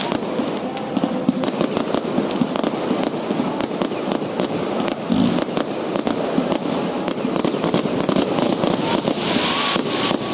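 Fireworks going off in a dense, continuous run of overlapping cracks and bangs.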